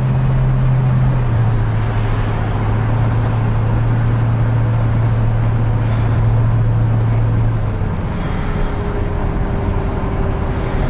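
A 1965 Ford Mustang's 289 V8 running steadily at cruise, with tyre and road noise, as heard from inside the moving car. About eight seconds in the engine hum falls away, leaving the road and tyre noise.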